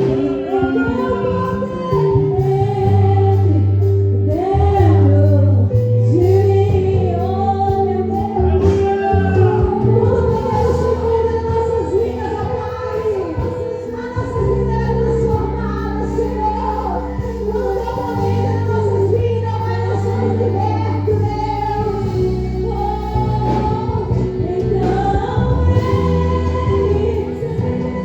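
Gospel worship song: singing voices over instrumental accompaniment with long sustained bass notes.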